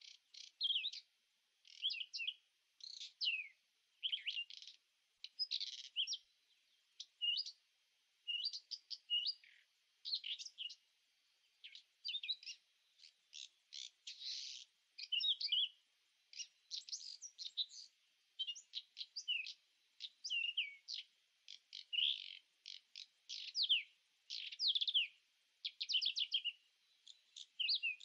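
Birdsong: quick high chirps and short trills, one call after another with brief pauses.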